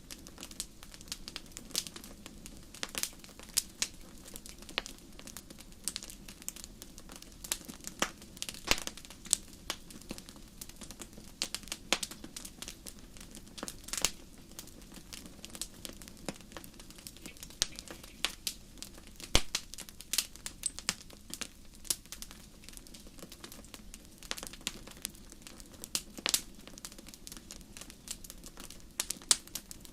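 Wood fire burning in a fireplace, crackling steadily with irregular sharp pops and snaps over a soft hiss.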